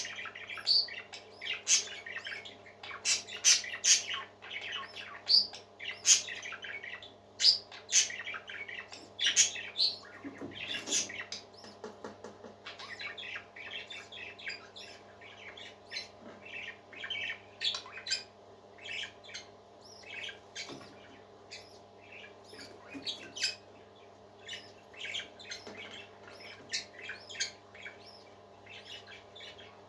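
Parakeets chattering with rapid chirps and squawks, busier and louder in the first half and thinning out after, over a faint steady hum.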